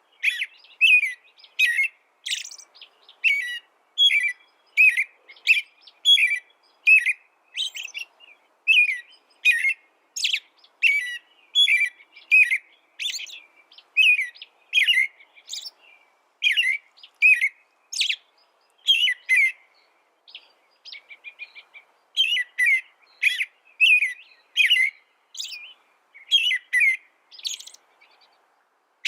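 A small songbird singing a long run of short, sweeping chirps, about two a second. About twenty seconds in there is a brief softer trilled passage, then the chirps resume.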